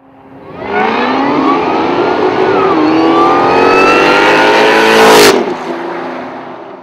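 Cadillac XLR V8 under hard acceleration, its engine note climbing steadily in pitch with a short dip about two and a half seconds in. About five seconds in it breaks off with a sharp crack, and a lower, steady engine note follows and fades out.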